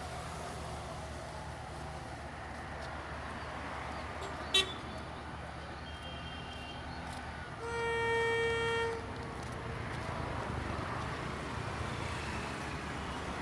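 A single horn blast lasting just over a second, about eight seconds in, over a steady low rumble; a short sharp beep sounds earlier, about halfway through.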